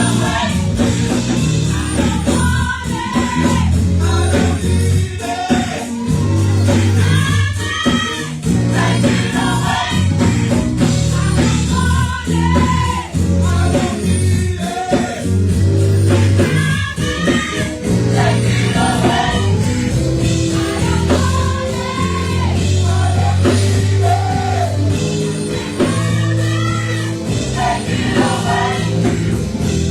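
Gospel choir singing with a lead vocalist over a live band, with a steady bass line underneath.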